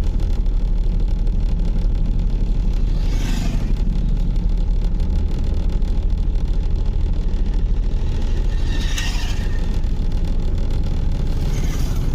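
Car engine idling, heard from inside the cabin as a steady low rumble, with a brief hiss about three seconds in and again about nine seconds in.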